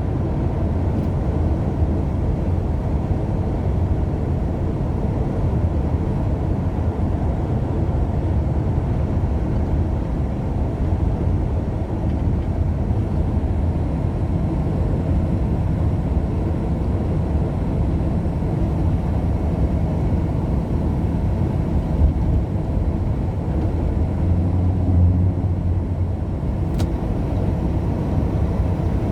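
Steady low rumble of a car driving along the road: engine and tyre noise with no distinct events.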